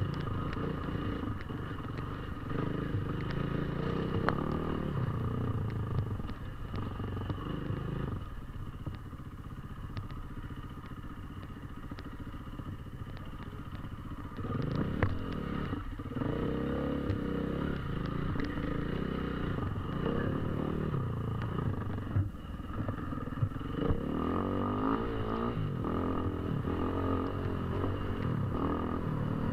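KTM 450 EXC's single-cylinder four-stroke enduro engine riding off-road, its pitch rising and falling as the throttle opens and closes, with scattered clicks and knocks. The engine eases off about eight seconds in and picks up again about halfway through, revving repeatedly near the end.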